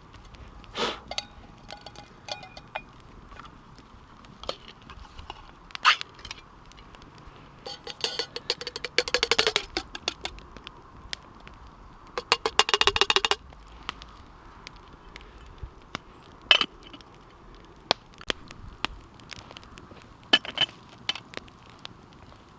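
Camp gear being handled: scattered clinks, taps and scrapes, with two runs of rapid clicking, one about eight seconds in and one about twelve seconds in.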